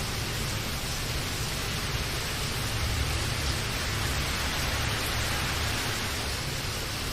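Steady heavy rainfall: a dense, even hiss with a low rumble underneath.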